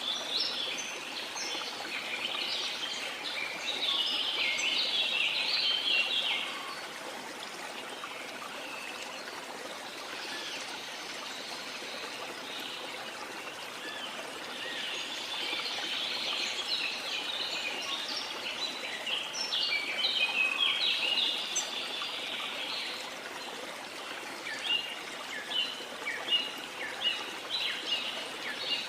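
Steady rush of a waterfall with several birds singing over it. The song comes in busy bursts, and near the end it breaks into a run of short, repeated chirps.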